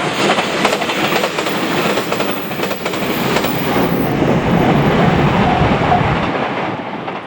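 Train running past, its wheels clacking over the rail joints, with a short repeated ringing tone heard twice in the later part.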